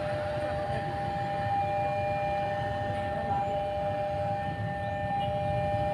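A steady two-note siren-like warning tone at the railway, held without a break over a low rumble.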